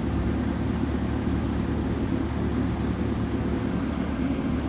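Merlo Roto rotating telehandler's diesel engine running steadily under hydraulic load as the boom extends, a constant low hum.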